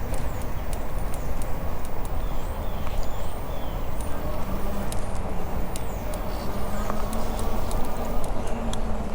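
Wind rumbling on the microphone of a moving bicycle, with the bike rattling and ticking over the pavement in scattered clicks. A few faint bird chirps sound in the first half, and a low steady hum comes in about halfway through.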